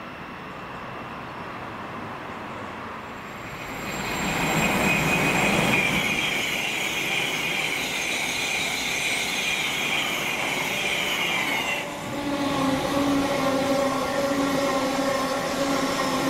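A Thameslink Class 700 electric multiple unit runs through at speed with wheel-and-rail rumble and a high traction whine that falls slightly in pitch. About twelve seconds in, this gives way to an electric-only LNER Azuma Class 801 passing, with several steady, lower humming tones over the running noise.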